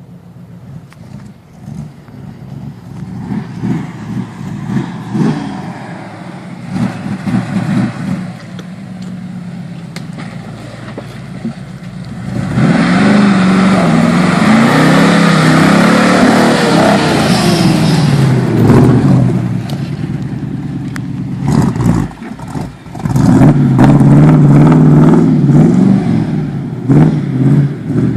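Small-block V8 of a mud truck revving hard as it is driven through mud, pitch rising and falling with the throttle. It builds up through the first part, then runs at full throttle for several seconds in the middle and again near the end, with a brief drop in between.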